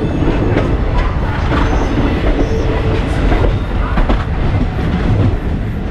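Passenger train running on the rails: a steady loud rumble with irregular clicks and clacks of the wheels over the track.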